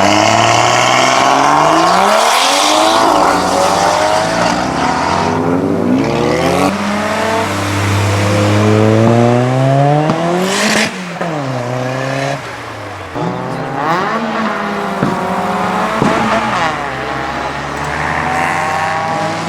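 Modified car engine revving hard and accelerating away, its pitch climbing and dropping several times in quick succession, with a sharp burst of noise about halfway through.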